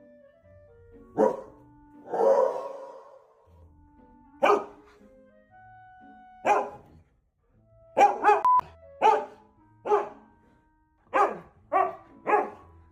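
Dogs barking: about eleven short single barks, irregularly spaced, a couple of them in quick succession, with quiet background music underneath.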